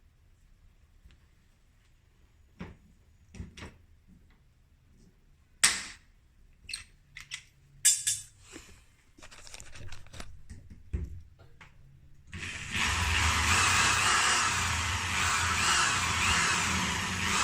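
Scattered knocks and clicks of tools and parts being handled, then about twelve seconds in an electric drill starts up and runs steadily, its pitch wavering slightly.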